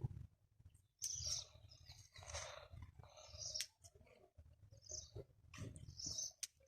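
Faint bird chirps at intervals, with a few sharp clicks.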